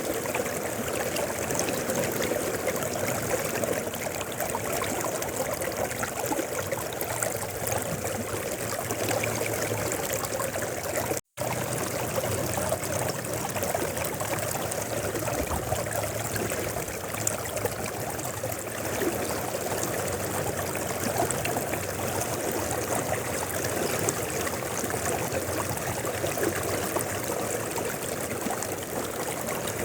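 Mountain river flowing, a steady rush of water that cuts out for a split second about eleven seconds in.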